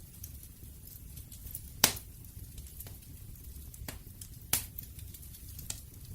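Wood campfire crackling over a low steady rumble, with irregular sharp pops and snaps. The loudest pop comes about two seconds in and another about four and a half seconds in.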